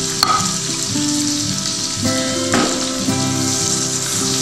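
Chopped onions, ginger, garlic and green chillies sizzling steadily in hot oil in a pan, with background music and a sharp tap just after the start.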